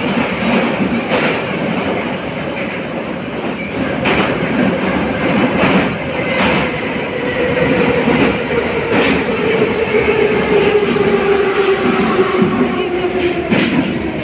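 Inside an 81-717.5 metro car running through the tunnel: a steady rumble with wheels knocking over rail joints, and a motor and gear whine that slowly falls in pitch over the second half as the train slows for the station.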